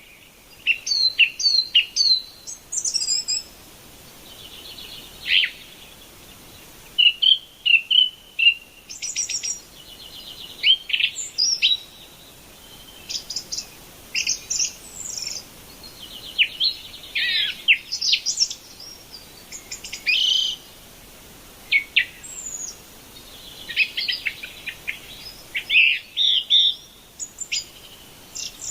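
Birds singing and chirping in many short, high phrases with brief gaps between them.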